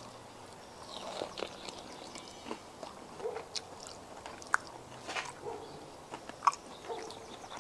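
A person biting and chewing a barbecue-sauced grilled pork shoulder country-style rib: scattered soft, wet mouth clicks and smacks.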